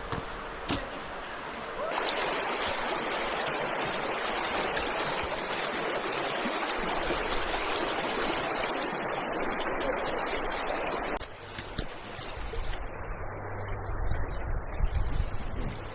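River water rushing over and around the stepping stones of the River Dove, a loud, steady rushing that starts abruptly about two seconds in and cuts off suddenly about eleven seconds in. Quieter flowing water with a low rumble follows.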